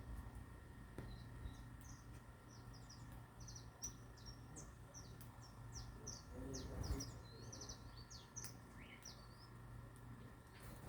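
Small birds chirping faintly in quick runs of short, high chirps, with a soft knock about seven seconds in over a steady low hum.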